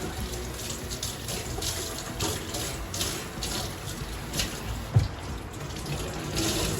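Kitchen tap running into a sink as dishes are washed, with short clatters of crockery and pans throughout and one sharper knock about five seconds in.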